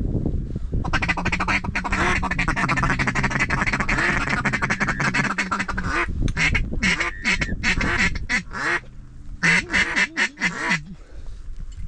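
Hunters blowing duck calls at circling ducks: a fast, rolling feeding chatter, then a run of separate quacks.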